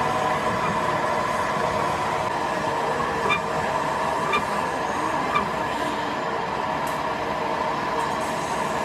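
Steady running hum of workshop machinery, with several constant tones over a dense mechanical noise. Three light clicks sound about a second apart near the middle.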